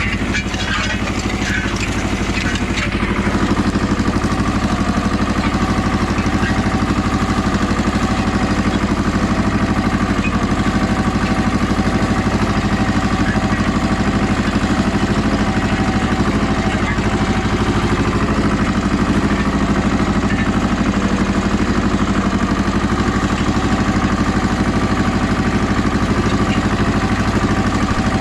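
Goldoni 933 RS DT tractor's diesel engine running steadily while pulling a disc harrow, a little louder after about three seconds.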